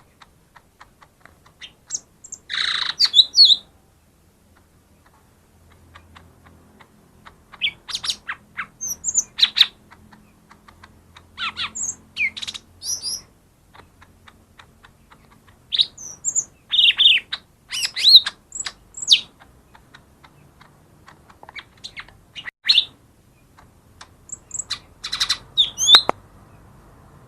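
Cucak ijo mini (leafbird) singing in loud clusters of quick whistled and chirping notes, with pauses of a second or more between phrases. It is the lure song used to set a reluctant cucak ijo singing.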